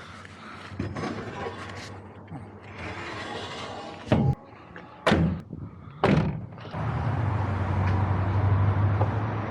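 Van doors slamming shut three times about a second apart, followed by a steady low hum that sets in near the end.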